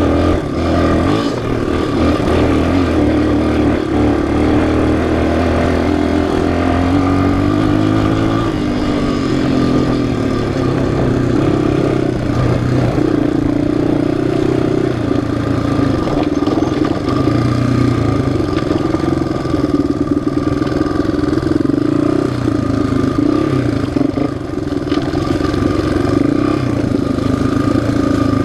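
Single-cylinder four-stroke off-road engine running under load, its pitch rising and falling with changes of throttle.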